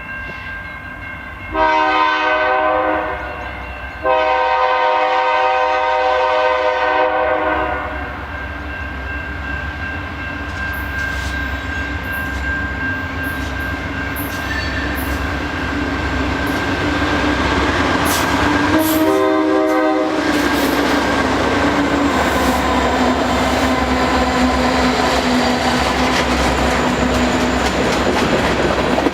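Freight diesel locomotive air horn sounding three blasts: a short one, a long one of nearly four seconds, then a short one about 19 seconds in. Between and after the blasts the train's rumble grows as the locomotives pass, and the railcar wheels start to clatter over the rail joints near the end.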